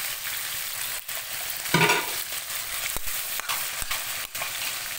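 Mushrooms, carrot and onion sizzling as they are stir-fried in a metal wok, with a metal spatula stirring and clicking against the pan. There is one louder scrape just before two seconds in.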